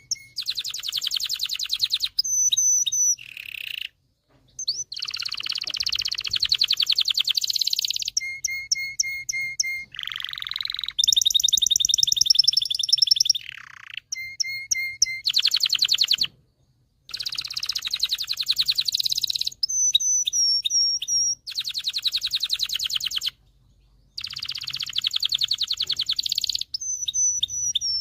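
Male domestic canary singing: fast rattling trills of one to three seconds each, alternating with short runs of repeated sharp chirps, with a few brief pauses between phrases.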